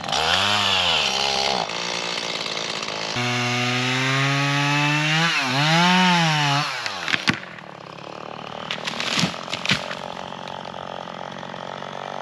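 Small chainsaw starting up and running at high revs, its pitch dipping and climbing again as it is throttled. About seven seconds in it falls away to a low idle, and a few sharp knocks follow near the end.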